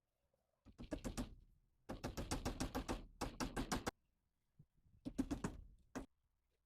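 Hammer tapping rapidly in three bursts, about six light strikes a second, as soffit is fastened.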